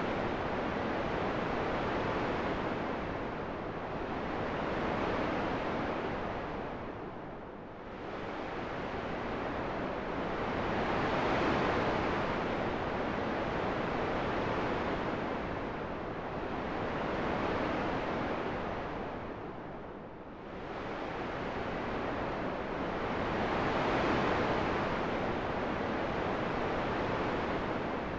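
Wind noise rushing in slow swells, rising and falling about every six seconds, with deeper lulls about 8 and 20 seconds in.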